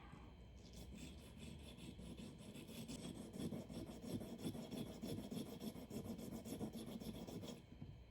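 Rapid back-and-forth rasping strokes as a worn part of a knife sharpener is abraded by hand to take out the ridges worn into it. The strokes start about half a second in and stop shortly before the end.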